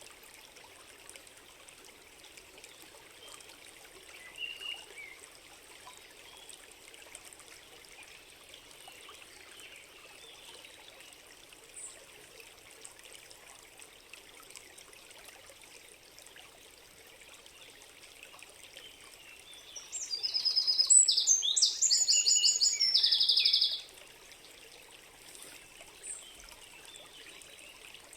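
Small stream trickling steadily, with a songbird singing a loud run of rapid, high notes lasting a few seconds about twenty seconds in, and a faint short bird call earlier.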